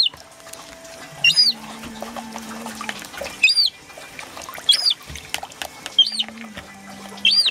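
Young herring-type gull chick giving a string of short, high peeping calls, each rising and then falling, about one a second.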